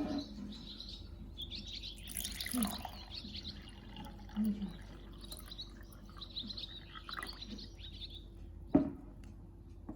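Birds chirping over a steady low hum, with one sharp knock near the end.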